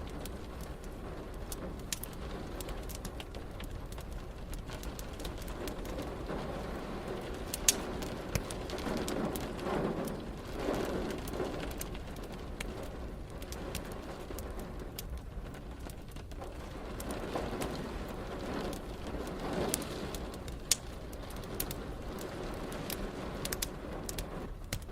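Fireplace crackling with scattered sharp pops over a steady hiss of rain. Two soft, low swells rise and fade, about ten seconds in and again near eighteen to twenty seconds.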